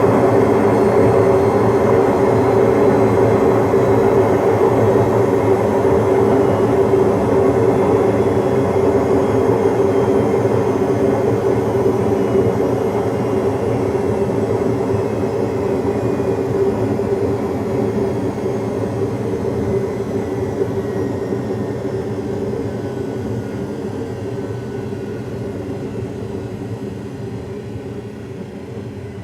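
Washing machine on a long spin cycle: a steady whirring hum from the spinning drum that gradually fades through the second half, its pitch sinking slightly as the drum slows down.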